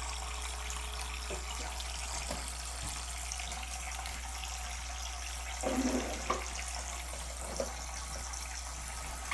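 Steady stream of water running and splashing into a pet birds' bath, with a brief louder sound about six seconds in.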